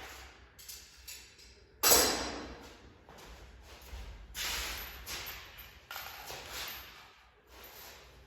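A series of irregular knocks and clatters, like parts or tools being handled, with one sharp, loud knock about two seconds in that rings out briefly.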